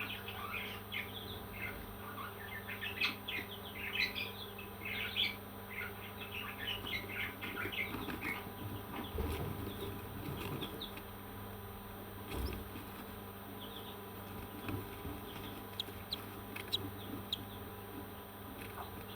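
Parrots chirping in a rapid run of short high chirps, then only a few scattered chirps over the second half, with a couple of dull thumps.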